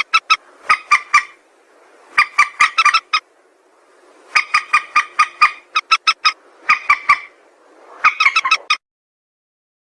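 A rail, known locally as mandar sawah, calling: bursts of short, sharp, repeated notes, several notes per burst, about seven bursts with short gaps between them. The calls stop a little before the end.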